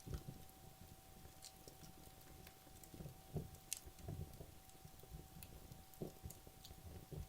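Wood logs burning down in a fireplace, with faint irregular crackling and soft pops and an occasional sharper snap. A faint steady tone hums underneath.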